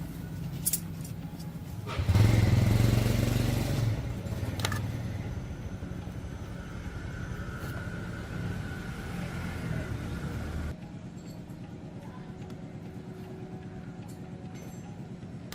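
A motor running with a steady low hum, louder for about two seconds a couple of seconds in, then cutting off suddenly about eleven seconds in.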